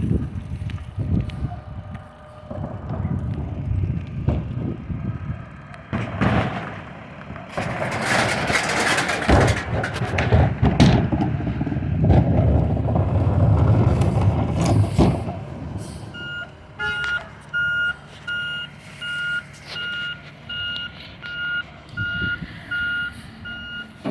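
Recycling truck with its diesel engine running, a loud rushing, clattering stretch in the middle, then its reversing alarm beeping steadily, a little faster than once a second, for the last third.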